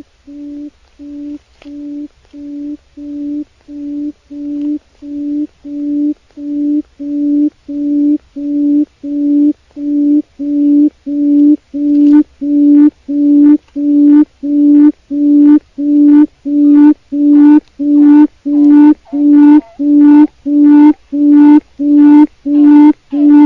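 Wild quail (chim cút rừng) calling: a long series of evenly spaced low hoots, about three every two seconds, growing steadily louder.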